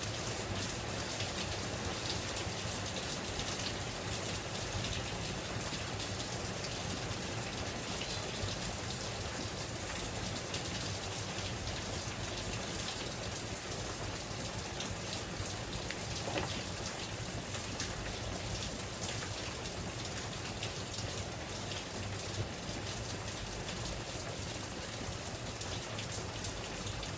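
Heavy rain pouring down steadily: an even hiss of many drops.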